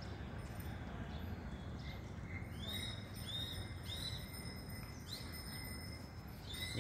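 A bird calling: several short high notes, each rising and falling, starting about two and a half seconds in, over a faint steady outdoor background.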